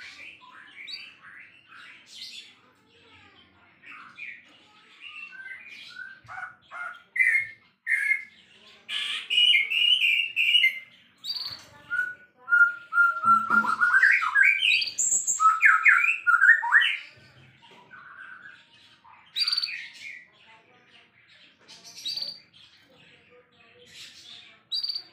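White-rumped shama (murai batu) singing a long, varied song of quick whistled phrases, trills and harsher notes, loudest through the middle stretch and sparser near the end.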